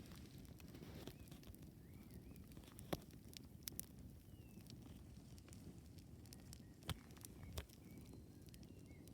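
Campfire crackling: irregular sharp pops and snaps from the burning wood over a faint low rumble of the fire.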